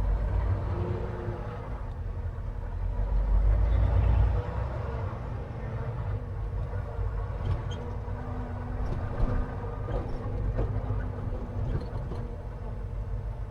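Semi truck's diesel engine running with a steady low rumble, swelling louder for a couple of seconds about three seconds in.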